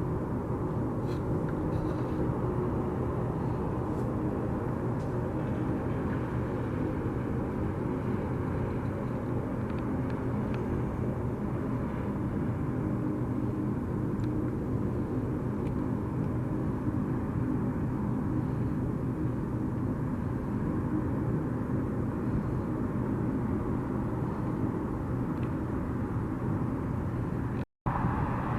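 Steady engine drone with a low hum of several steady tones, unchanging throughout; it cuts out abruptly near the end.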